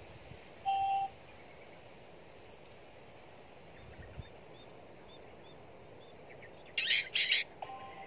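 Birds calling in the trees: a fast, even run of faint high ticking notes throughout, a short pure whistle about a second in, and small chirps in the middle. Near the end come two loud harsh calls, then a steady whistled tone sets in.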